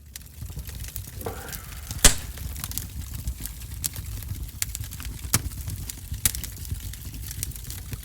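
Wood fire crackling and popping in a wood-burning stove: irregular sharp snaps over a low steady rumble, with one loud pop about two seconds in.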